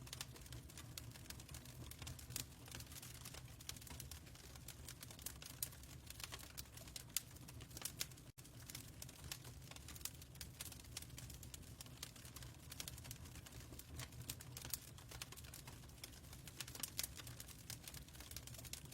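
Fireplace crackling: faint, irregular sharp pops and snaps over a low, steady hum, with a brief dropout about eight seconds in.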